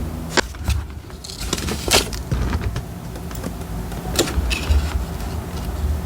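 Paper and stationery being handled on a desk during diary decorating: a few sharp taps and clicks, with soft rustling between them.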